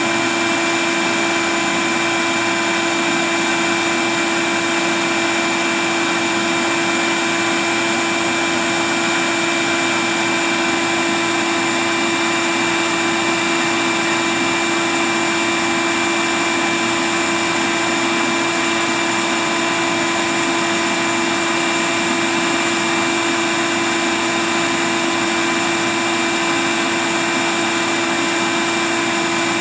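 Bee vacuum running steadily as it sucks swarming honey bees off tree branches: a constant motor whine with a steady airflow hiss.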